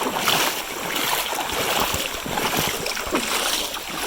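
River water sloshing and rushing, an uneven noisy wash with no engine or voice.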